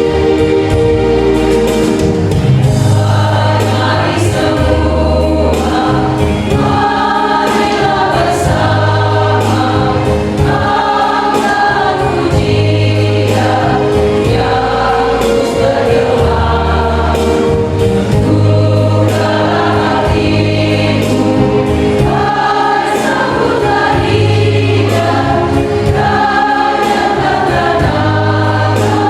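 Church choir singing a hymn in several voices over instrumental accompaniment, with sustained bass notes that change every second or two.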